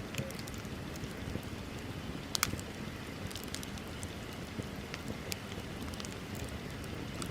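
Bonfire burning: a steady low rush of flames with scattered sharp crackles and pops, one louder pop about two and a half seconds in.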